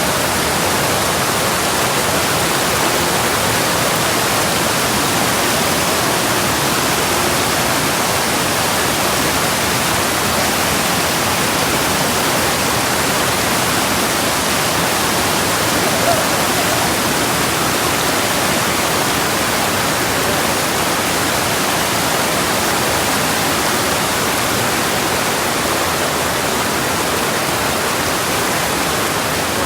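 Rushing water, such as a waterfall or rapids, making a steady, unbroken noise.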